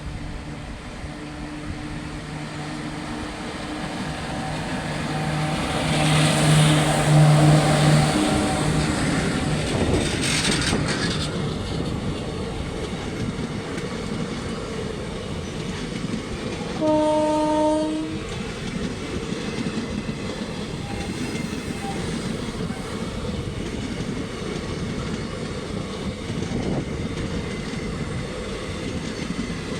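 A train horn sounds one long steady blast for about nine seconds, growing louder as the train approaches. The train then rushes past with its wheels clattering on the rails, and the horn gives one more short blast a little past halfway.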